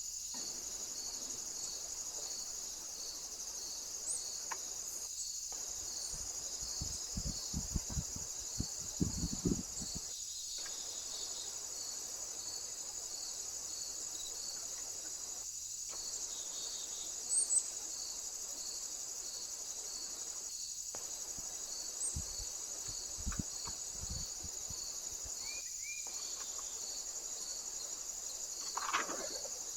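Insects stridulating: a continuous high-pitched trill with a steady pulsing chirp beneath it, about one to two a second. Now and then there are a few dull low knocks.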